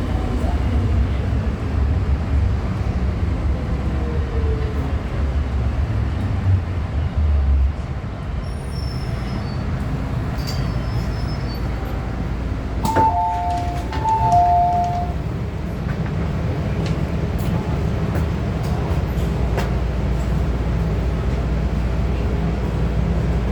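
MTR M-Train EMU rumbling as it brakes into a station and comes to a stop about eight seconds in. About halfway through, a two-note electronic door chime sounds twice as the doors operate, followed by a steady low hum while the train stands at the platform.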